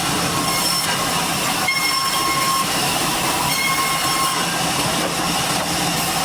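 Sawmill saw cutting through a durian log: a loud, steady rushing noise with a thin whine that rises and fades twice in the middle.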